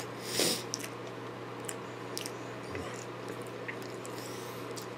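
Chewing a mouthful of deep-fried Twinkie: soft, wet squishing and small mouth clicks scattered through, with one louder breath about half a second in. A steady low hum sits underneath.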